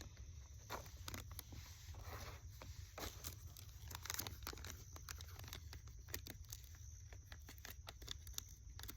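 Faint rustling and crinkling of MRE plastic pouches being handled, with irregular sharp crackles.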